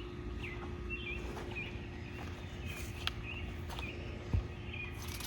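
A small bird chirping over and over in short high notes, roughly one or two a second, over a faint steady hum and a few light ticks.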